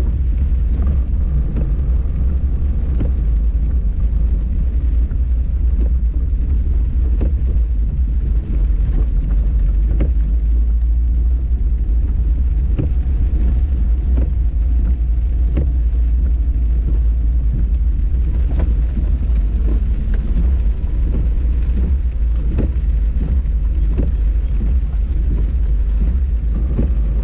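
Car driving: a loud, steady low rumble with scattered light taps and clicks.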